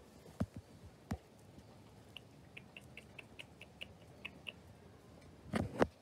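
A bird giving a run of short, high chirps, about five a second, for a couple of seconds. Two faint knocks come before it, and a louder thump near the end.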